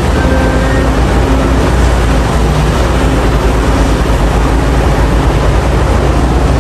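Heavy diesel mining machinery running steadily, a loud deep engine drone with a dense, even rumble.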